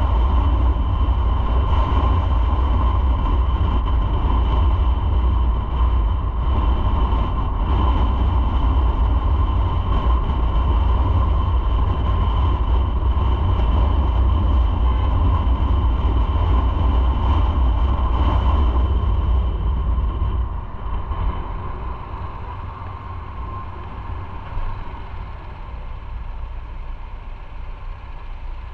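Motorcycle riding at speed: a loud, steady rumble of engine and wind noise. About twenty seconds in it drops noticeably quieter as the bike slows down to a low engine idle.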